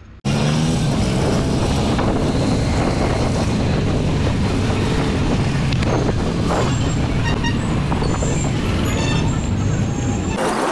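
Motorcycle engine running at low road speed with road and wind noise, heard from the rider's seat; it comes in suddenly just after the start and holds steady.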